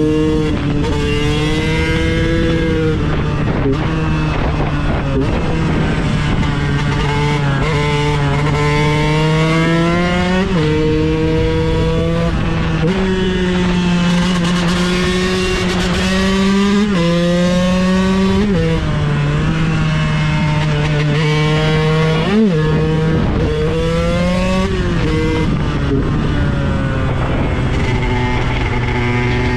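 KTM 125 EXC's single-cylinder two-stroke engine pulling hard through the gears, its pitch climbing and then dropping sharply at each shift, again and again. One short sharp blip comes about two-thirds of the way through.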